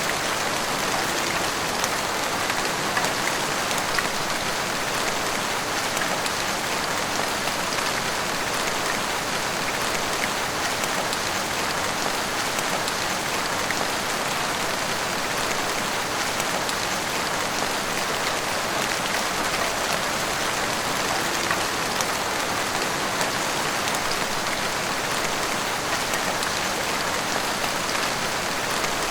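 Heavy rain pouring steadily, a dense even hiss of drops hitting the street and rooftops with scattered individual drop ticks.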